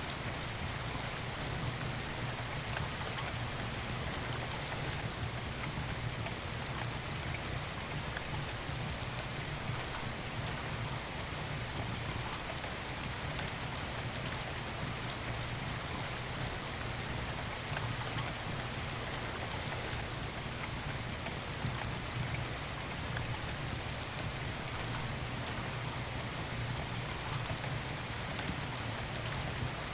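Steady rain falling, an even continuous hiss, with a few faint crackles from a wood fire in a fireplace.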